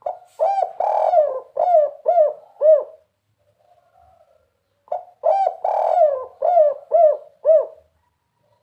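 Spotted dove (tekukur) cooing: two phrases of about six arched coos each, the second phrase starting about five seconds in.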